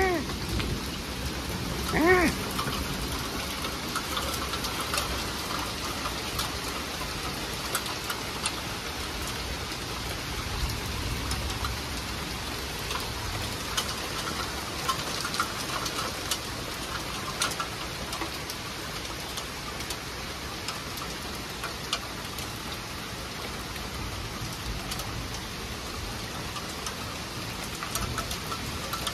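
Steady rain falling on trees and a wet wooden deck, a continuous hiss with scattered individual drops ticking. A brief pitched sound comes right at the start and again, louder, about two seconds in.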